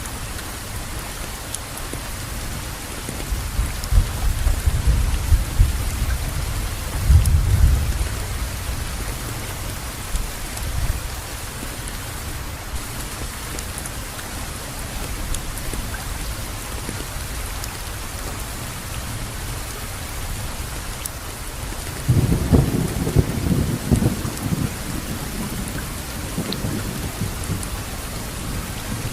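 Steady heavy rainfall with rolling thunder: one rumble swells from about three seconds in and fades by eight, and another breaks about twenty-two seconds in and rolls for a few seconds.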